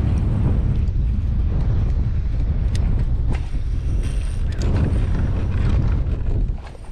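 Strong wind buffeting the microphone as a loud, steady low rumble, which eases off near the end.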